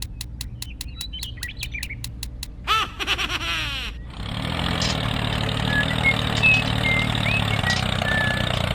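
Rapid even clicking, about six a second, over a low hum, then a short falling whoosh-like glide, and from about four seconds in an engine starts and runs steadily, louder than before. A few short bird chirps sound over the engine.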